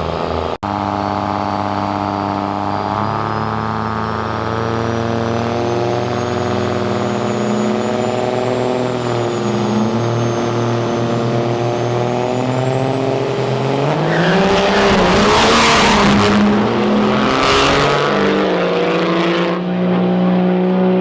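Two diesel drag-racing trucks held at steady revs at the starting line, then launching about fourteen seconds in with a loud, rising surge of engine noise that lasts about five seconds before easing back to a steadier note.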